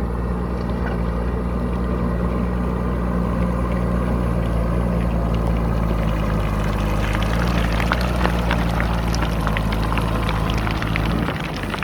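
JCB backhoe loader's diesel engine running steadily under load. From about halfway in, gravel rattles and clatters as it pours from the bucket. The engine note drops just before the end.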